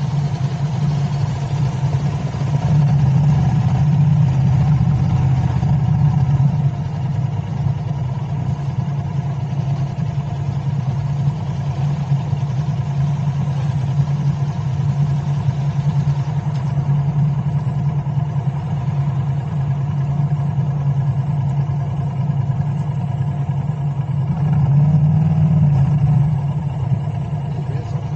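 A vehicle's engine and road noise on the move: a steady low hum that swells briefly twice, early and near the end.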